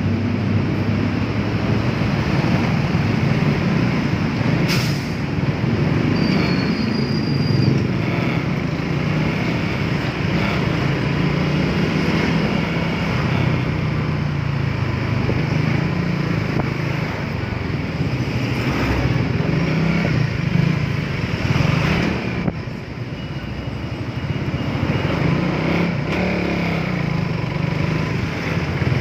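Suzuki Raider 150 Fi motorcycle engine running while riding, its pitch rising and falling with the throttle, under steady wind and road noise on the microphone. There is a sharp click about five seconds in, and a brief drop in engine sound a little past twenty-two seconds.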